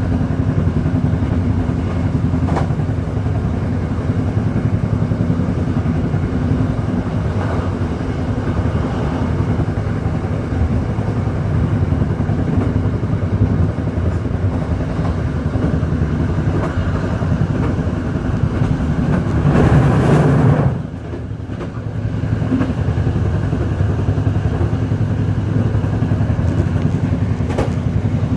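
A vehicle running steadily at speed, with a low engine drone throughout. About twenty seconds in it swells louder for a moment, then drops off suddenly before settling back to the same steady running.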